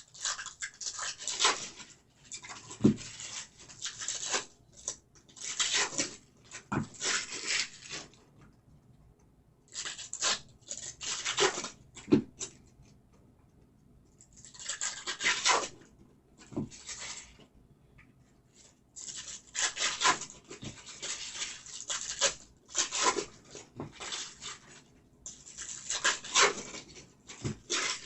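Trading card packs being torn open and cards handled: irregular bursts of crinkling, rubbing and sliding, with short pauses between them.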